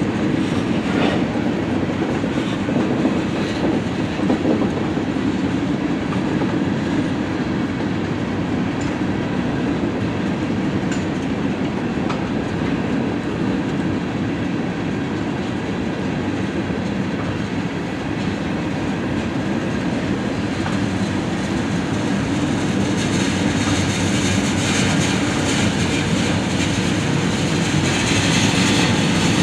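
Train cars rolling past, a steady rumble of wheels on rail with clickety-clack over the rail joints, and a higher hiss growing louder near the end.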